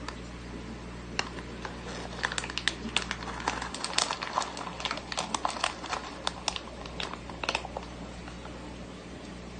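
Irregular run of sharp clicks and crunches, densest between about two and eight seconds in, as a black diamond stingray eats pellets, over the steady hum of an aquarium's pump or filter.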